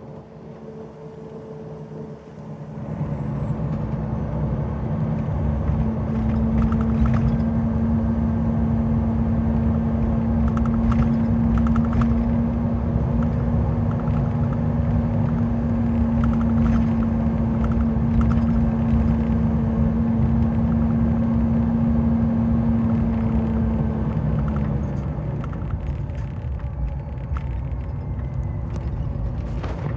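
Bus diesel engine with its exhaust brake on: a steady droning tone over the engine's rumble that holds for about twenty seconds and then cuts off suddenly, leaving the engine running more quietly.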